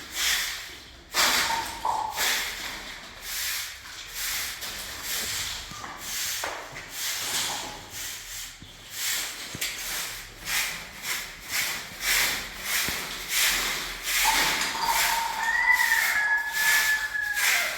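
Repeated rasping strokes, roughly two a second, like something being rubbed or brushed over a surface; for the last few seconds a steady high tone sounds along with them.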